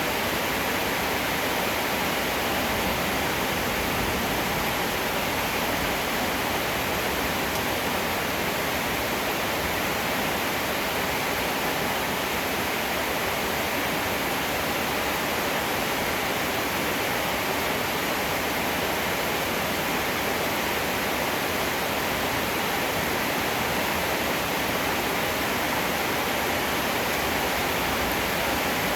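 Heavy rain falling, a dense, even hiss that stays steady throughout.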